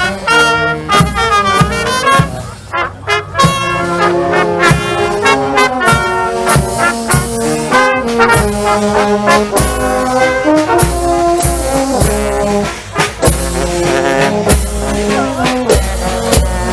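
Brass band music: trombones and trumpets playing a tune over a steady drum beat.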